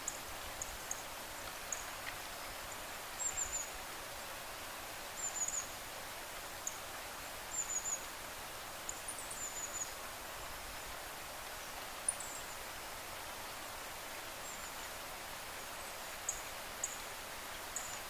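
Steady outdoor hiss with short, high chirps from small birds scattered every second or two, some in quick clusters of two or three.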